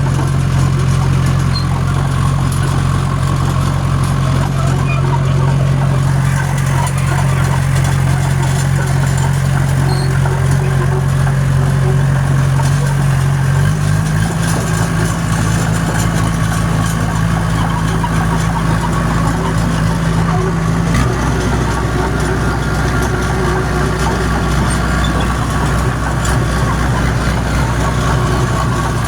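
John Deere crawler dozer's diesel engine running steadily under load. Its pitch steps up about fourteen seconds in and drops back about seven seconds later.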